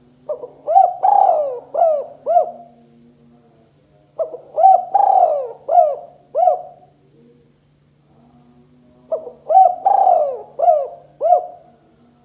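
Spotted dove cooing: three phrases about four to five seconds apart, each a quick run of about five coos.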